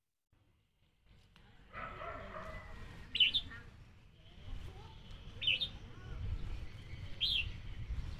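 A bird chirping: a short, high call repeated about every two seconds, over a low background rumble. The sound comes in about a second and a half in, after a moment of silence.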